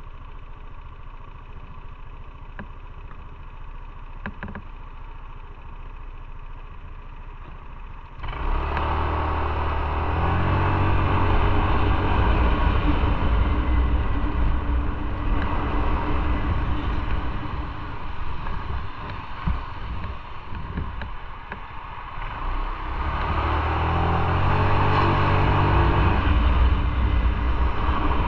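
Motorcycle engine idling quietly, then pulling away hard about eight seconds in, its note climbing as it accelerates, with a rush of road and wind noise. It eases off for a few seconds and then accelerates again near the end.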